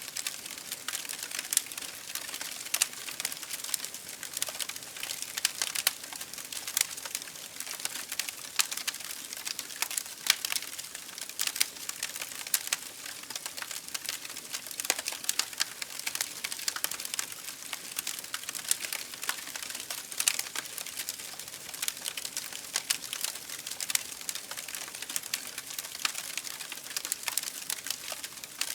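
Campfire burning with a steady, dense crackle of small sharp pops and snaps over a soft hiss.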